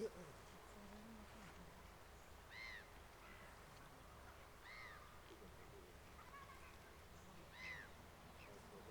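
A bird calling faintly in short, arched notes, three clear calls a couple of seconds apart. A brief sharp knock comes right at the start.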